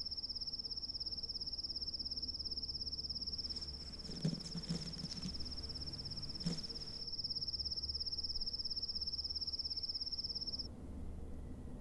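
A cricket trilling: one continuous, high-pitched, fast-pulsing trill that stops about a second before the end. A few faint soft rustles come in the middle.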